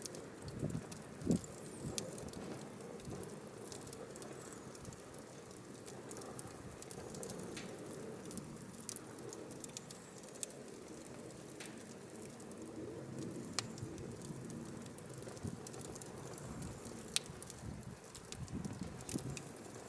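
Firewood burning, with sharp crackles and pops scattered over the steady rush of the flames; the loudest pop comes about a second in.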